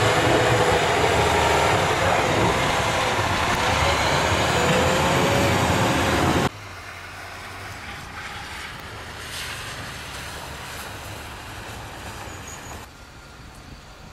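Steady rushing noise of a vehicle on the road, with faint wavering tones over it; it drops abruptly to a quieter hum about six and a half seconds in, and steps down again near the end.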